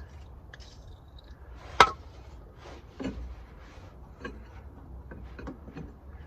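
Exhaust parts being worked into place by hand: one sharp knock a little under two seconds in, then a few lighter knocks and rubbing sounds.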